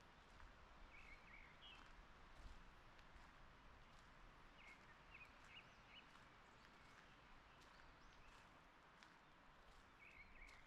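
Faint forest ambience with small groups of short bird chirps, about a second in, around five seconds in, and again near the end.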